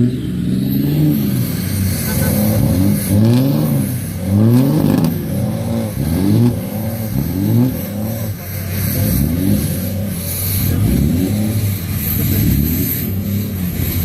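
A vehicle engine revving over and over, its pitch rising and falling about once a second.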